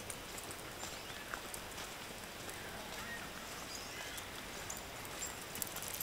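Faint, short bird calls over a steady outdoor hiss, with a few light footfalls on a dirt path.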